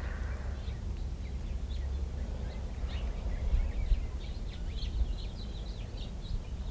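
Quiet outdoor ambience: a steady low rumble, with small birds chirping in many short high notes from a couple of seconds in.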